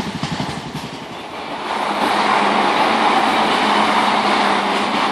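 Electric multiple-unit passenger train passing close by: a rhythmic beat of wheels over the rail joints at first, then, about two seconds in, a louder steady rush of wheel and rail noise with a low hum running under it.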